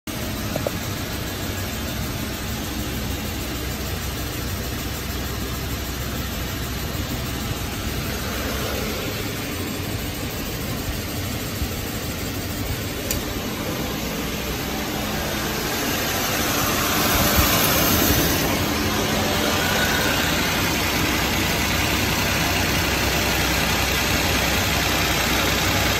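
Subaru Legacy driving along with steady road and drivetrain noise, the drone of a worn front hub bearing among it. The noise grows louder about two-thirds of the way through.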